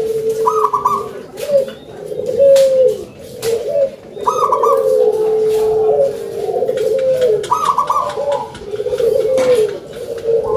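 Local zebra dove (perkutut) cooing its song: a short high trill followed by a rolling, wavering coo, the phrase repeating about every three and a half seconds, with a few sharp clicks.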